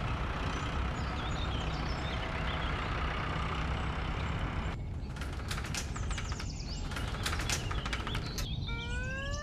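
Cartoon vehicle sound effects: a dump truck engine runs with a steady low rumble while birds chirp. From about five seconds in comes a fast rattling clatter of a garage roller door. Near the end a police siren starts, rising in pitch.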